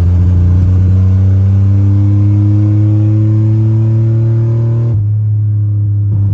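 Chevrolet 4.3 V6 engine pulling at full throttle on a 150 shot of nitrous. Its note rises slowly as the truck accelerates, then drops abruptly about five seconds in.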